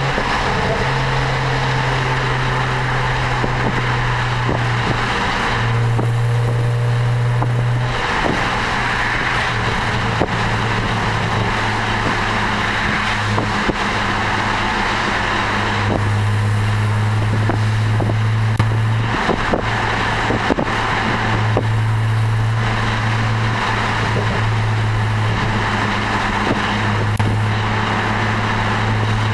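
BMW 335i's turbocharged straight-six droning through an Eisenmann Race exhaust at a steady cruise, its low note stepping up and down a little several times, with wind and road noise from the open passenger window.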